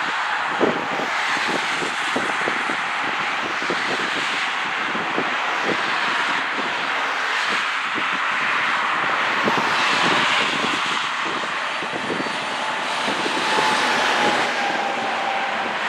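Freight train rolling past at restricted speed: a steady rushing noise with many irregular clicks and clunks of steel wheels on the rails.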